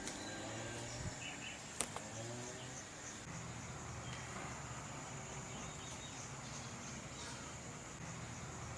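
Outdoor ambience: a steady high-pitched insect drone, likely crickets or cicadas, with one sharp click about two seconds in.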